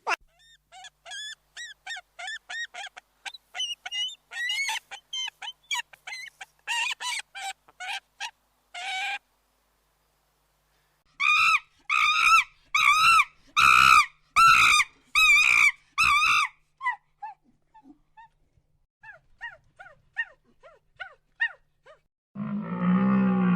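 Animal calls. First comes a long run of short, high peeping calls. Then about seven loud, harsh calls follow in quick succession, then faint peeps again. Near the end a loud, low call begins.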